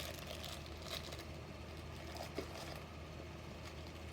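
Quiet room tone: a low steady hum with a few faint soft clicks and rustles, the loudest about two and a half seconds in.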